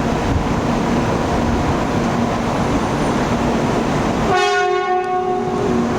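Shinkansen train running with a steady rushing noise, then a single horn blast of about a second and a half starting about four seconds in.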